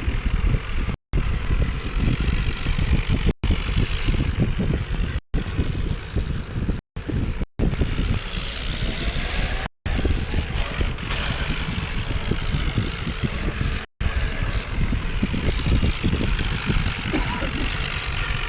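Vehicle engine running with a rough, steady low rumble, broken several times by abrupt, brief silent gaps.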